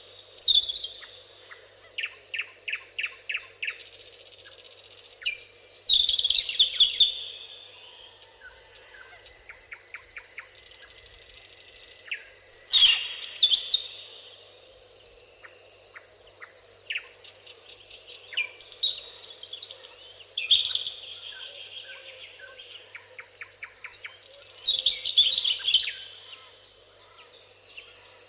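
Several songbirds singing and calling in a meadow: quick repeated notes, trills and chirps overlapping, with louder bursts of song about six, thirteen and twenty-five seconds in. A steady high thin tone runs underneath.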